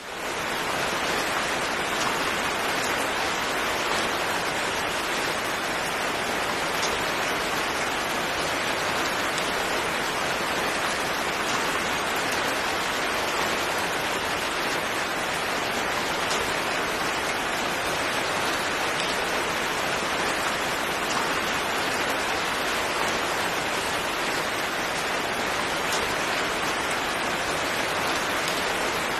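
Steady rain falling, a constant hiss with faint scattered drop ticks, fading in at the very start.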